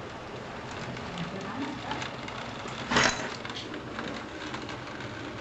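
Storm rain: a steady hiss with scattered drops striking, and one short, sharp crack about three seconds in.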